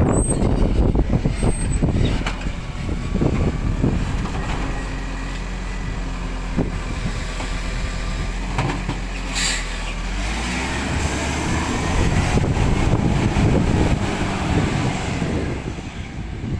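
Rubbish collection truck's engine running close by, with a short hiss of air about nine and a half seconds in, then the engine revving up.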